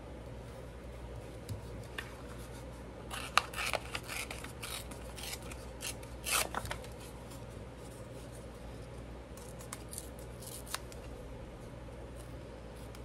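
Paper and small craft pieces being handled on a tabletop: short bursts of rustling and light clicks, loudest a little after three seconds in and again around six seconds in, with a few more clicks near the end, over a steady low hum.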